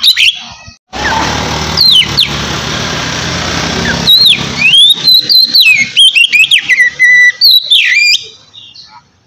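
Oriental magpie-robin singing loud, clear whistled phrases that swoop up and down, with a rough hissing noise under the song for the first few seconds. The song breaks off abruptly near the end.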